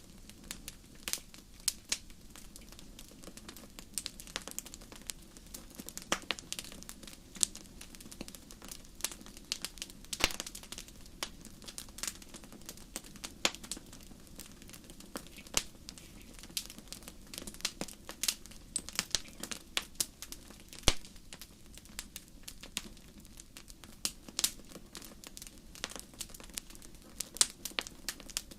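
Campfire crackling: burning wood giving irregular sharp pops and snaps, several a second, over a soft steady low background.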